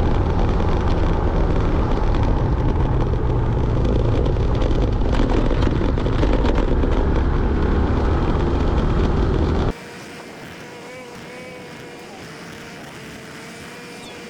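Riding a motor scooter: wind buffeting the microphone over the running engine and road noise. About ten seconds in, the sound cuts abruptly to a much quieter stretch with a faint, wavering whine.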